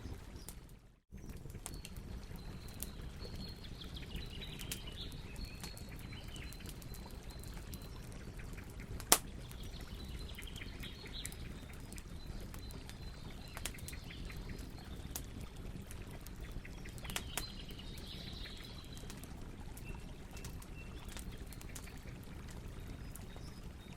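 Campfire crackling with scattered small pops and one loud pop about nine seconds in, over a low steady rumble, with birds chirping. The sound cuts out briefly about a second in.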